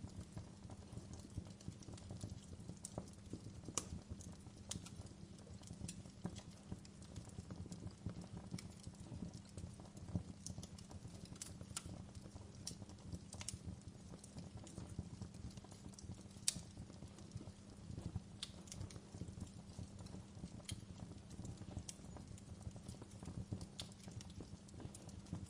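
Wood fire crackling: scattered sharp pops and snaps, irregular and a few each second, over a steady low rumble.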